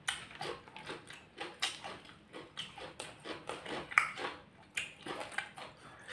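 Close-miked eating sounds: chewing and wet lip-smacking as rice and fried side dishes are eaten by hand, in short irregular clicks and smacks with a sharper crunch-like click about four seconds in.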